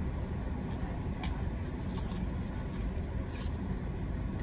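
Car engine idling, heard from inside the cabin as a steady low rumble, with a few faint ticks over it.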